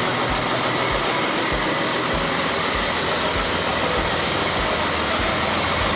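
Steady car noise, engine and road rumble, as the car is driven slowly, with low thuds recurring every half-second or so.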